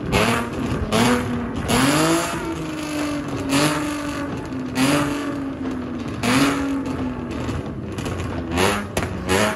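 Car engine revving in repeated short bursts, one roughly every second or so, its pitch rising and falling between them.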